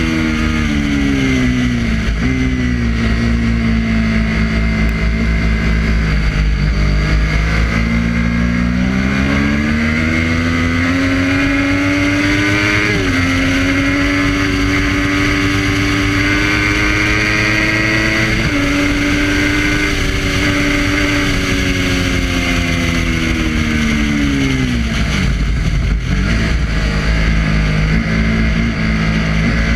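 Triumph Daytona 675's inline-three engine being ridden hard on track, with wind rush. The revs fall at first, then climb through two upshifts in the middle, fall away again near the end and climb once more.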